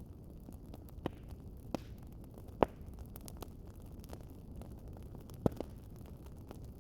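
Wood fire crackling: a low steady rumble of flames with scattered sharp pops, the loudest about two and a half seconds in and another about five and a half seconds in.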